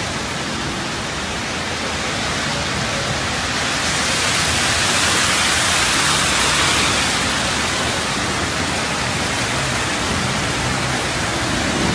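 Heavy rain pouring down in a steady, dense hiss that swells a little in the middle.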